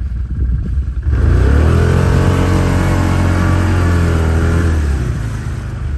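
ATV engine revved hard about a second in and held at high revs for several seconds, then easing off, as the quad tries to drive through deep slush without getting through.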